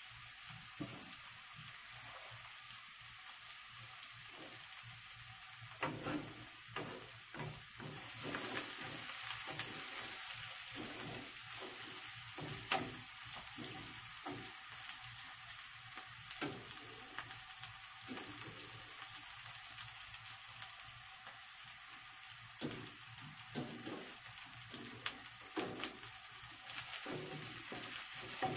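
Chopped garlic and leek sizzling in hot oil in a nonstick wok, stirred with a wooden spatula that knocks against the pan now and then. The sizzle gets louder about eight seconds in.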